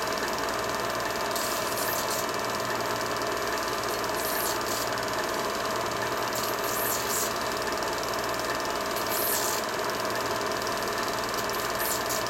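Steady mechanical whirring and rattling of a film projector running as old home-movie film is played back.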